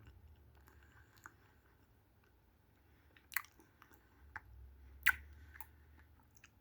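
Chewing a mouthful of ice cream sandwich, a soft cookie around strawberry ice cream, with quiet wet mouth clicks and smacks. Two louder smacks come about three and a half and five seconds in.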